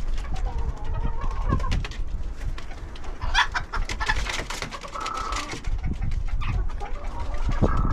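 Porcelain Belgian Bearded d'Uccle bantam rooster making short clucking calls a few seconds apart, with a brief harsher call a little over three seconds in. Clicks and a low rumble sit underneath.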